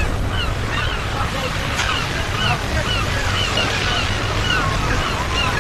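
Ocean surf washing steadily on a beach, with many short high chirps scattered over it.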